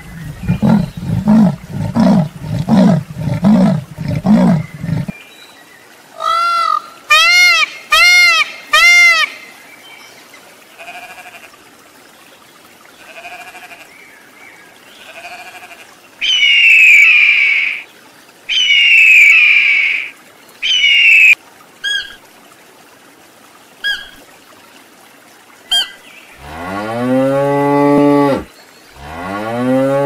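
A sequence of different animals calling. First a leopard gives its rasping sawing call, about seven harsh grunts in under five seconds. Later a bird of prey gives three long, falling screeches followed by short chirps, and near the end a cow moos twice, long and deep.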